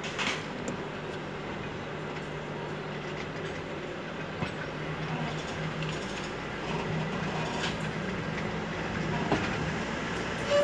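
Passenger train running along the rails, heard from a carriage window: a steady rumble of wheels on track with a low hum underneath and a few clacks over the rail joints.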